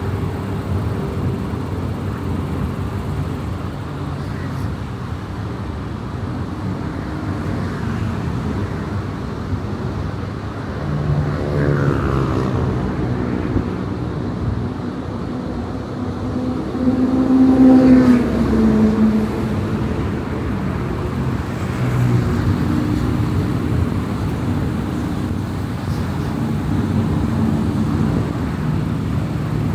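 Car driving along a highway with steady tyre and engine noise. Other vehicles' engine notes swell and glide in pitch as they go by; the loudest comes a little past halfway and falls in pitch as it passes.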